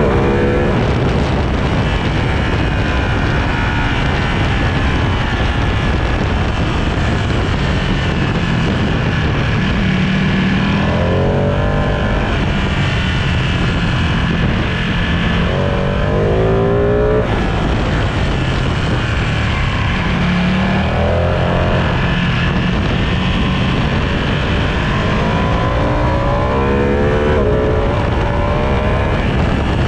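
Sport motorcycle engine at full throttle on a race track, its pitch rising several times as it accelerates through the gears, over a steady rush of wind.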